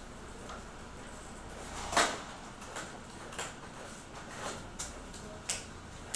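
Sharp clicks and knocks from a Xerox WorkCentre 7855 copier, about six at irregular intervals, the loudest a crack about two seconds in.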